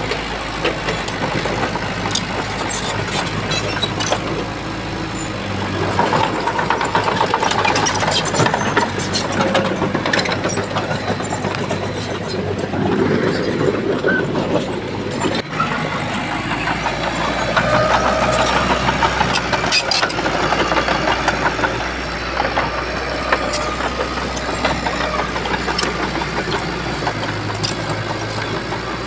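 Bulldozer's diesel engine running under load, with sharp clanks and knocks over a steady low engine hum, and a brief break about halfway through.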